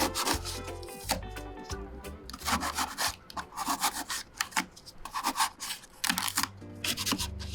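A run of short, repeated scraping and rubbing strokes over background music.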